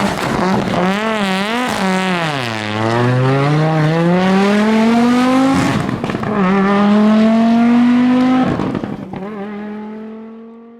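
Audi Quattro S1 rally car engine under hard driving. The revs waver on and off the throttle, then climb steadily through the gears, with upshifts about five and a half and eight and a half seconds in. The sound then fades away near the end.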